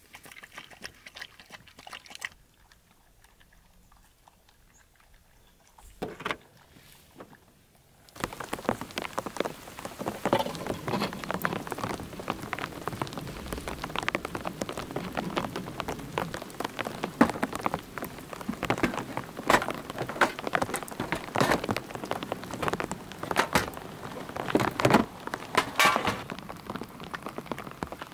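Rain falling, a dense pattering of drops that sets in abruptly about eight seconds in after a faint, nearly quiet stretch with a few scattered ticks.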